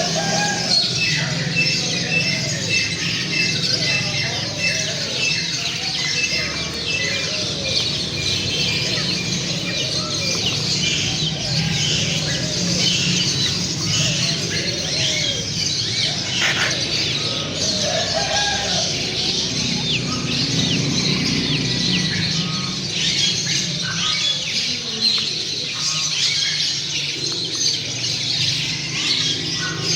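Many birds chirping and calling at once, a dense, continuous chatter of high twitters, with lower arching calls repeating every second or so.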